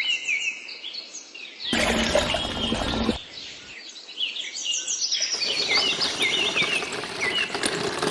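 Small birds chirping over and over in short, quick notes, over a rushing outdoor background that cuts in and out abruptly.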